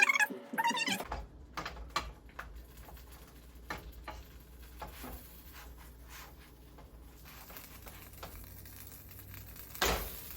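Kitchen handling sounds while cooking: scattered light clicks and taps over a low steady hum, with a short bit of music at the very start and a sharper knock near the end.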